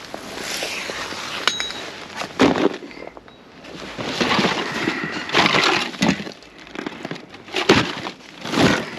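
Rummaging through discarded goods in a dumpster: rustling, scraping and clattering of boxes and containers being handled. There is a sharp ringing clink about a second and a half in, and several knocks later on.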